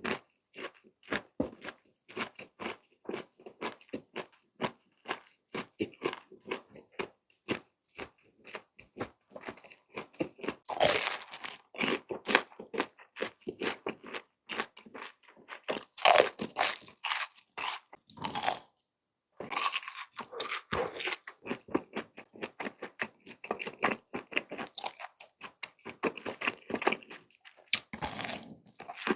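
A person chewing and biting crunchy food close to the microphone, with steady small mouth clicks. Louder bouts of crunching come about eleven seconds in, again from about sixteen to eighteen seconds, and near the end.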